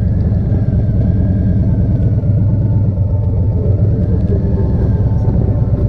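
Harley-Davidson Street Glide Special's V-twin engine running with a steady, deep rumble.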